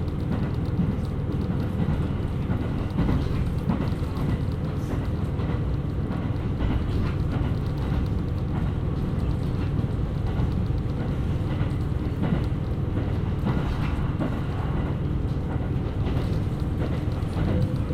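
KiHa 127 series diesel railcar running along the line: a steady low rumble of engine and wheels on the rails, with a few light clicks.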